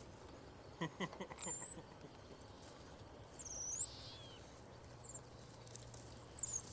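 Faint, very high-pitched animal chirps, short sweeps down and back up, repeating every second or two, with a couple of brief squeaks about a second in.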